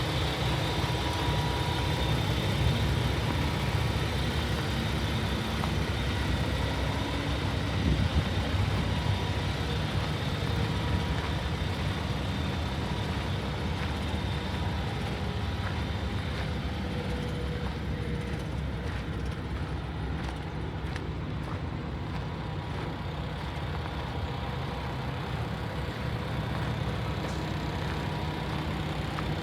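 Paccar MX-13 diesel engine of a Kenworth T680 day cab idling steadily.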